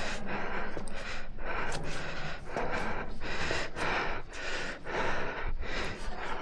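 A person breathing hard and fast close to the microphone, about two breaths a second.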